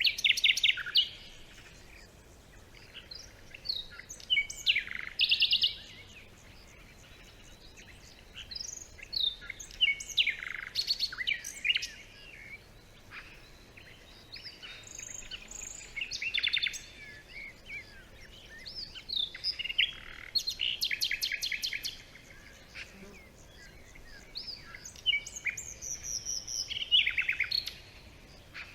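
Several songbirds singing and calling in a forest, in bouts of quick chirps and fast trills every few seconds.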